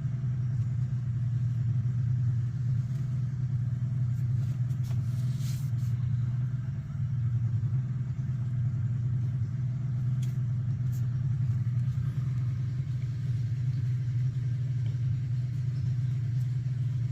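A boat's outboard motor running steadily at cruising speed, a constant low drone.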